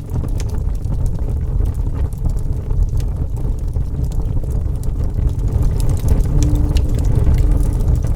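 Wood fire burning: a steady low rumble from the flames, with frequent sharp crackles and pops from the burning wood.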